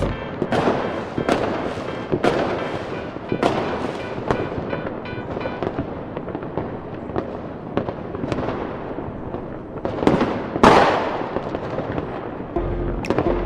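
Fireworks exploding: a string of bangs over the first four seconds with crackling between them, then two more bangs about ten seconds in, the second the loudest.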